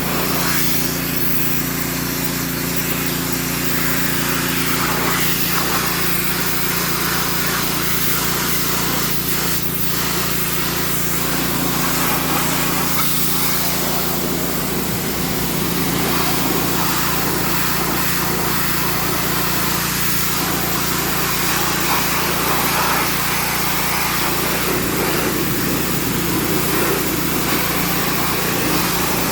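Gas-engine pressure washer running steadily, its high-pressure spray hissing against the truck's metal body as it blasts off paint and rust.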